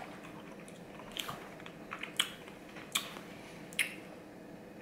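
A person chewing strawberries close to the microphone, with four short wet mouth smacks about a second apart.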